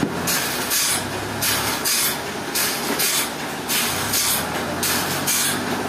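Sawmill machinery running, with a high hiss that pulses on and off about twice a second over a steady low rumble.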